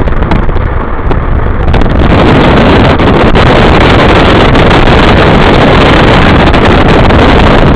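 Loud wind noise buffeting the microphone over the steady rumble of a car driving through a snowstorm; the rush grows louder about two seconds in and stays heavy.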